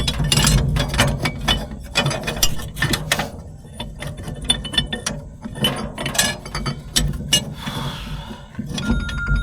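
Hand work on haybine drive parts: a dense run of metallic clicks, clinks and knocks at an uneven pace as collars and shaft pieces are handled and fitted.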